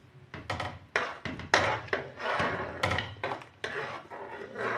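A spoon stirring chicken broth in a cooking pot to dissolve two stock cubes, knocking and scraping against the pot in irregular strokes.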